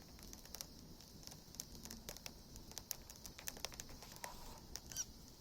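Campfire wood crackling faintly, with irregular sharp snaps and pops.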